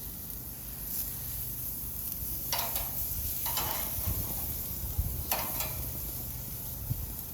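Chicken sizzling on a barbecue grill as sauce goes on: a steady hiss, with three or four short louder hisses flaring up.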